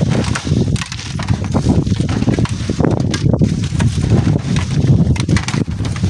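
Strong wind buffeting the microphone in a continuous low rumble that surges and drops, with short knocks and gritty scrapes scattered through it.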